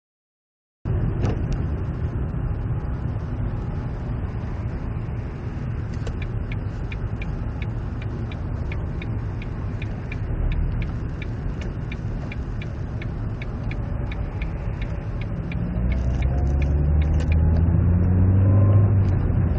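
Car driving, a steady low rumble of engine and road noise as heard from inside the vehicle, starting abruptly about a second in. Regular light ticking runs through the middle at about two or three a second, and near the end the engine note rises as the car speeds up.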